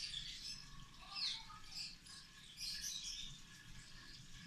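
Faint, scattered bird chirps, including a short falling chirp about a second in and a cluster near three seconds.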